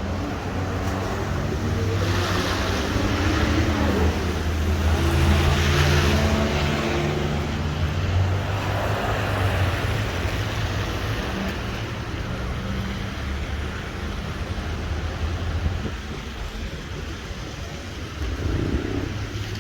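Road traffic on a rainy street: a motor vehicle engine running close by, its pitch shifting, with a hiss that swells and fades about two to seven seconds in.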